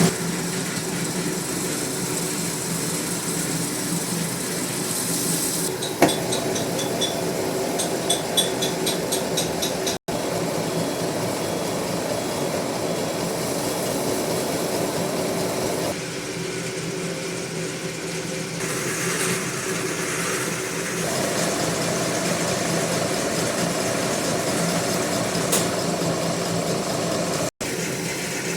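Metal-turning lathe running steadily. A run of light, regular ticks comes about six to ten seconds in, and the sound drops out for a moment twice.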